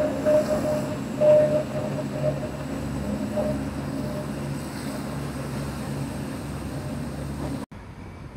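Diesel passenger train running, heard from an open carriage window as it passes a level crossing, a steady low drone. The crossing's warning bell rings in rapid repeated dings, loudest in the first second or so and fading as the train moves on. Near the end the sound drops off abruptly to a quieter running noise.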